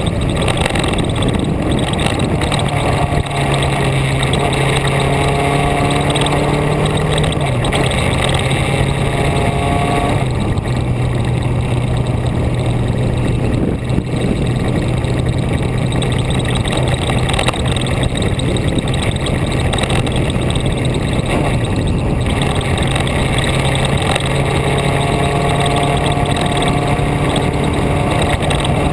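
Vehicle engine running steadily while driving, under a constant rushing road and wind noise. The engine note steps down in pitch about a quarter of the way in and back up near the end.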